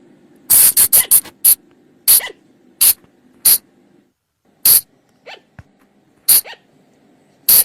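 Sunda colugo (flying lemur) calls: short, sharp, shrill calls. A quick run of four or five comes about half a second in, then single calls follow at uneven gaps of roughly half a second to a second and a half.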